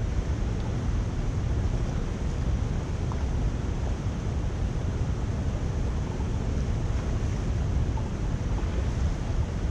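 Steady rush of water draining through a culvert, an even, unbroken noise heaviest in the low end.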